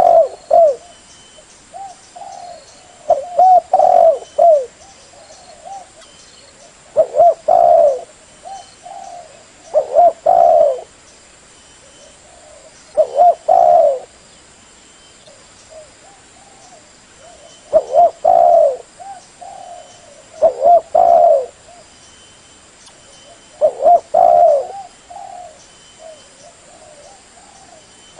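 Spotted dove (terkukur) cooing: a loud phrase of several coos about every three to four seconds, with softer coos in between.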